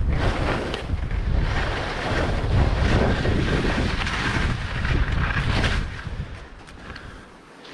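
Wind buffeting the microphone and skis hissing over snow while skiing downhill, a rushing noise that swells and eases and drops away about six seconds in.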